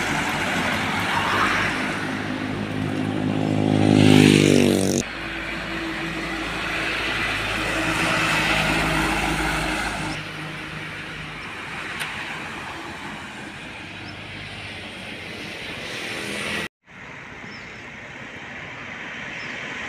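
Heavy diesel trucks driving past on a road in a string of short clips. One engine's note climbs and is loudest about four seconds in before cutting off abruptly, and more engines and road noise follow, with a brief drop-out near the end.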